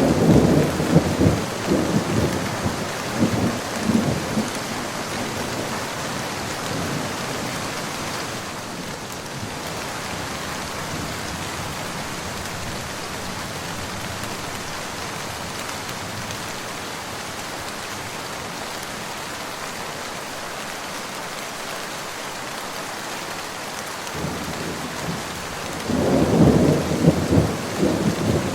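Steady rain falling, with rolling thunder rumbling for the first few seconds and again near the end.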